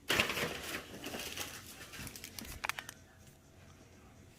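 Firework packs being handled: packaging rustling and crinkling, fading after a second or so, then a few light clicks about two and a half seconds in.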